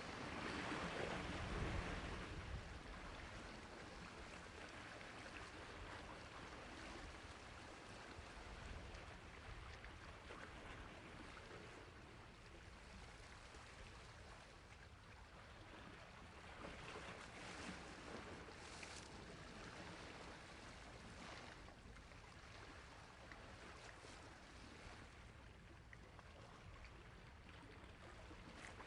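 Sea waves washing on a shore, a louder wash about a second in, then softer, gentle swells.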